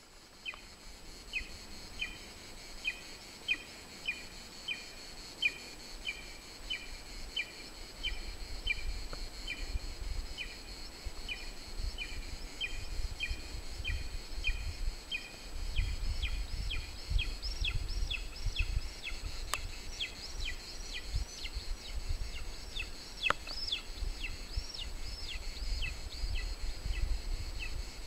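Birds calling: a short high note repeated about once or twice a second, joined about halfway through by a second, higher repeated call. Wind rumbles low on the microphone, with a couple of faint clicks.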